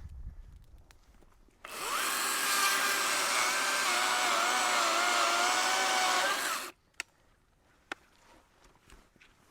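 A chainsaw speeds up and runs at full throttle through a cut for about five seconds, its pitch wavering slightly under load, then stops abruptly.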